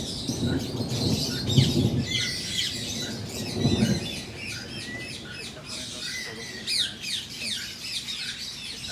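A flock of lovebirds chirping continuously, with many short high chirps overlapping one another. A few low thumps come in the first four seconds.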